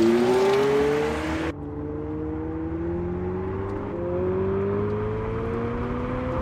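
Abarth 500e's sound generator playing an artificial petrol-engine note that rises in pitch as the electric car accelerates. A hiss drops away abruptly about a second and a half in, and the engine note keeps climbing more slowly.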